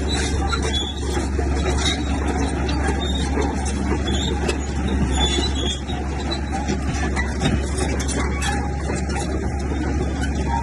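Bulldozer's diesel engine running steadily under work, with a continuous metallic rattle of its tracks.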